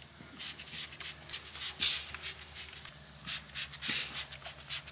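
Irregular shuffling and rustling, a few scuffs a second, over a faint steady low hum.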